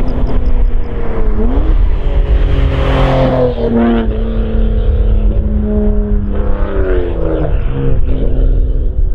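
Toyota JZX90 Mark II's 1JZ-GTE twin-turbo straight-six engine and exhaust, loud, its pitch climbing and dropping several times as the car accelerates and shifts, with the highest climb about three seconds in.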